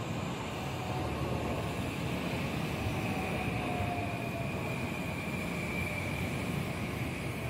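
JR West 521 series electric train passing close by with a steady rumble of wheels on rail. A faint whine slides slowly down in pitch as it goes by.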